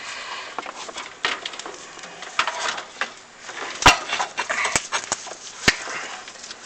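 Inspection gear being handled and worked in a fireplace flue: rustling and scraping with several sharp clicks and knocks, the loudest about four seconds in.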